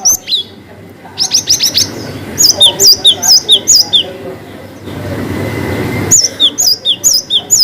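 Cinereous tit singing its loud, repeated two-note song, a high whistled note dropping to a lower one, in runs of four or five phrases, with a quick series of falling notes near the start. Between the runs, about five seconds in, there is a second of rustling noise.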